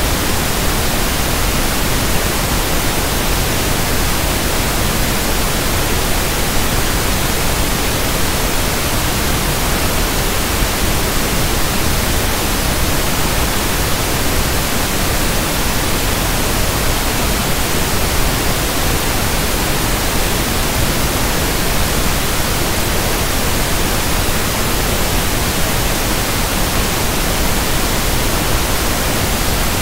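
Steady, loud synthetic pink (1/f) noise: an even hiss across all pitches that never changes.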